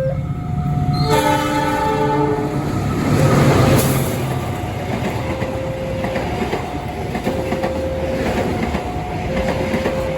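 A diesel locomotive's horn sounds about a second in, followed by the rush and rumble of a train running past.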